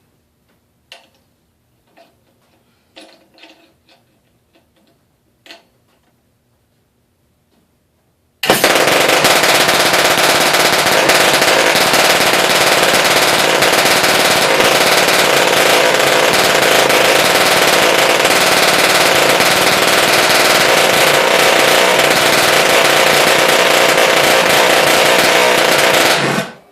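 A few faint clicks and knocks, then about eight seconds in a 1938 Clarke Troller outboard motor is spun by its spring starter and catches at once. It runs loud and steady out of the water for about eighteen seconds, then cuts off suddenly near the end.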